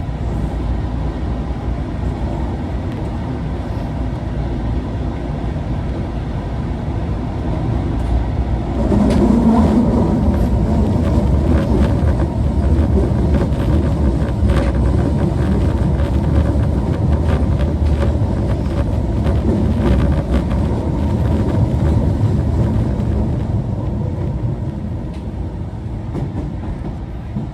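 Interior running noise of Osaka Metro 22 series subway car 22962, a car singled out for its unusual running noise: a steady rumble of motors and wheels that swells about nine seconds in, with sharp clicks from the wheels over rail joints, easing off slightly near the end.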